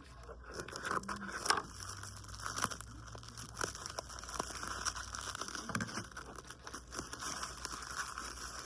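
Packaging crinkling and tearing as a parcel is opened by hand, with scattered small clicks and knocks of the contents being handled.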